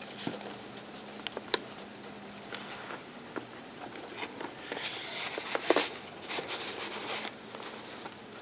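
Rain pattering, with irregular drops ticking sharply against a nearby surface. The rain thickens into a denser patter for a couple of seconds past the middle. A faint steady hum runs underneath.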